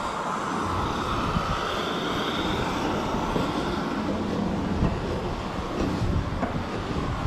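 Machinery running with a steady rumble, started up shortly before while water is being loaded into the truck.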